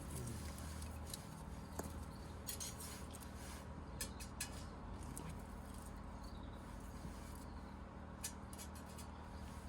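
Scattered light clicks and clinks of small hard objects being handled, over a faint steady low background.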